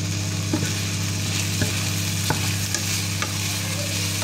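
Chicken pieces, red onion and chilli sizzling steadily as they fry in a coated frying pan, with a few light taps of a spatula stirring them. A steady low hum runs underneath.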